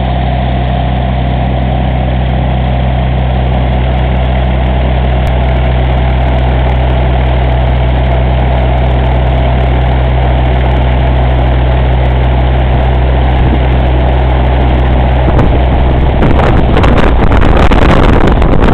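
A light aircraft's propeller engine idling steadily at a loud, even hum. About 16 seconds in, the hum breaks up into a louder, rougher noise that stops suddenly at the very end.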